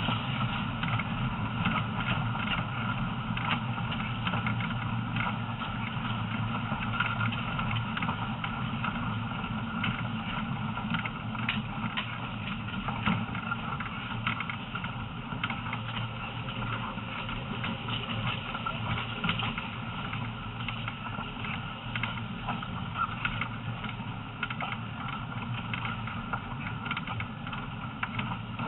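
Heritage train running slowly along the line, heard from on board: a steady rumble with scattered sharp clicks and knocks from the wheels on the track.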